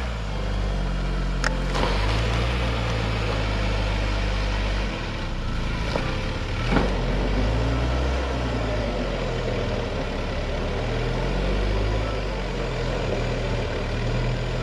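Camper van engine revving up and down repeatedly as the van tries to drive out of soft sand where it is stuck, with a steady rushing hiss under the engine that fits wheels spinning. A couple of short sharp knocks, one about a second and a half in and another near the middle.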